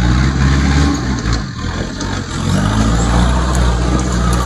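Off-road 4x4's engine running, easing off about a second and a half in and building again a second later.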